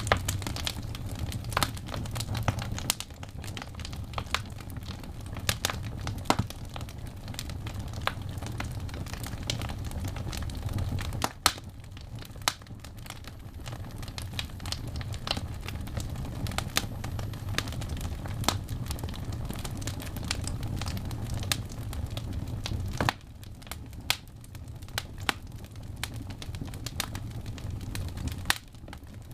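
Wood fire burning in a fireplace, crackling with frequent sharp pops and snaps over a steady low rumble. The rumble drops away abruptly twice.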